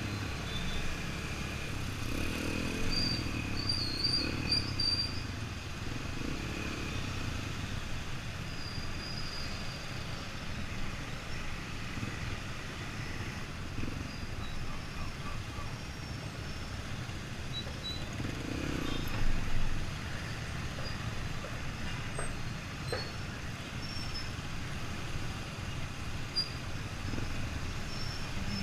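Yamaha XTZ 125 dirt bike's single-cylinder four-stroke engine running under way on a street ride, a steady low rumble with a brief louder swell about two-thirds through.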